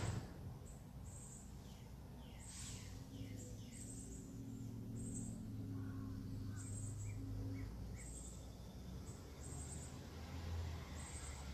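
Birds chirping outdoors: short high-pitched calls repeating about once or twice a second, with a few quick falling notes, over a low steady hum. A sharp knock right at the start.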